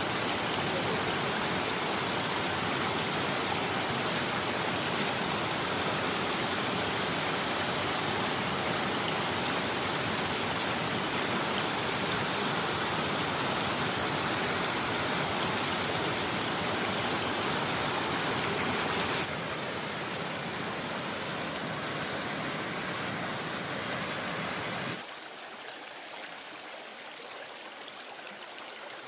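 Stream water rushing in a steady wash. The sound drops abruptly in level twice, about two-thirds of the way through and again near the end.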